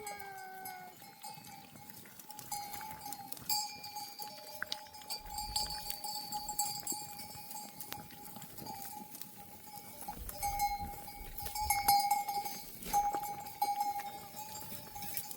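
Bells on a flock of sheep clanking and jingling as the animals move, with one bell's tone ringing steadily throughout and many small metallic clinks over it.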